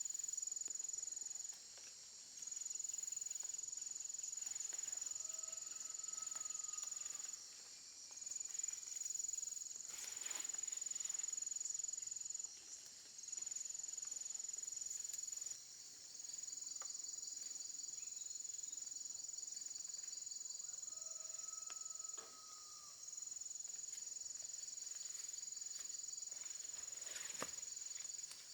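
Insects trilling steadily in a high, continuous buzz that breaks off briefly every few seconds. Two short faint whistles and a few light knocks sound over it.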